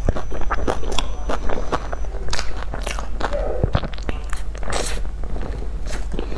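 Close-miked chewing and biting of soft crumble-topped cream puffs: many short, irregular wet mouth clicks and smacks with faint crunches of the crumb topping.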